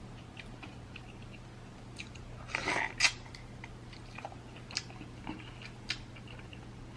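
Close-up eating of snow crab legs: chewing with a few sharp cracks and crunches of crab shell, the loudest about three seconds in.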